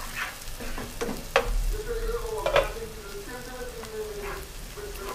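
Chopped onion, garlic and pimento sizzling in hot oil in a pot while a wooden spoon stirs them, with two sharp knocks of the spoon against the pot.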